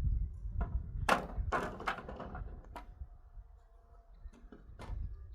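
A series of irregular knocks and thuds: a quick cluster about a second in, then single knocks near three and five seconds in.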